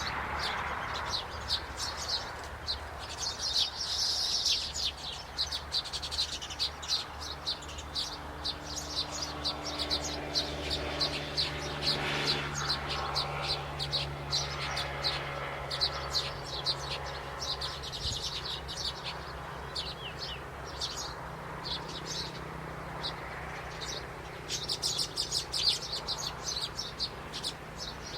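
Small birds chirping busily, with many short high chirps in quick succession that grow thickest near the end, over a low steady hum.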